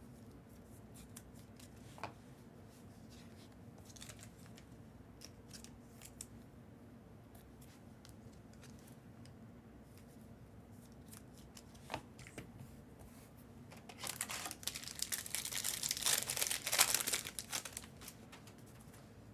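A Panini Prizm basketball hobby pack's wrapper torn open and crinkled for about four seconds near the end, after a long stretch of faint clicks and rustles of cards being handled.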